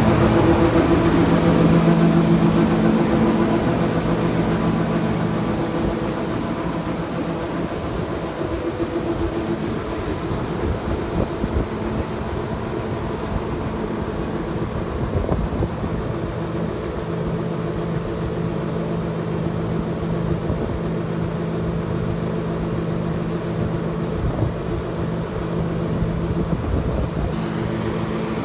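Combine harvester running steadily in the soybean field, its engine giving a steady drone with several constant hum tones, a little louder in the first few seconds and then level.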